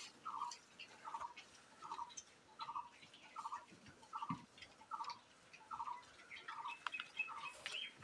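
A bird calling one short, same-pitched note over and over, about every three-quarters of a second, with faint scattered clicks and snuffles from piglets feeding on dry feed.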